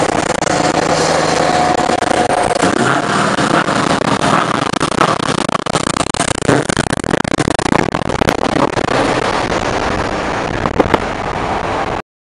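Scania R730's 16-litre V8 diesel under throttle with a loud exhaust, heard at motorway speed. It is steady at first, then turns choppy with irregular crackles through the second half, and cuts off abruptly near the end.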